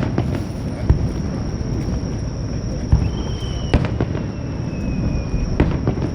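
Fireworks display: aerial shells bursting with sharp bangs about five times, spaced irregularly, over a continuous low rumble. Between the bangs, whistling fireworks give thin whistles, one short and level, one longer and slowly falling.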